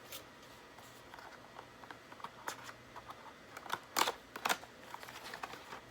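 Packaging being handled and opened: scattered small clicks and crinkles, with two louder clicks about four seconds in.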